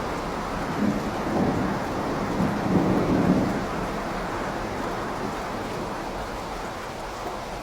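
Steady rain with a low rumble of thunder that swells in the first half, peaks about three seconds in, then fades back under the rain.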